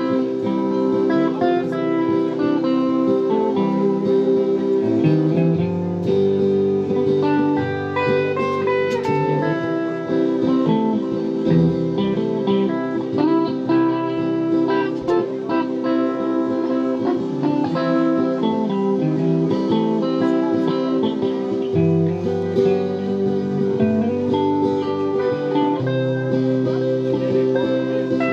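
Live band playing an instrumental guitar passage of a country ballad, a guitar melody over a bass line, with no vocals.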